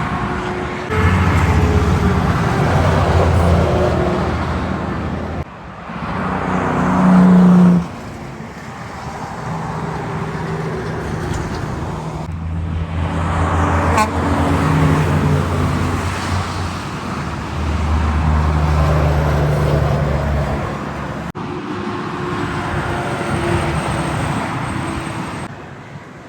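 Heavy trucks driving past on a highway, their diesel engines droning with road and tyre noise, in several short passes that cut abruptly from one to the next. The loudest pass swells to a peak about seven seconds in and then cuts off.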